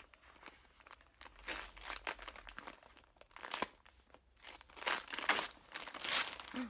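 Wrapping paper being torn and crinkled by hand as a gift is unwrapped, in irregular bursts of rustling and tearing.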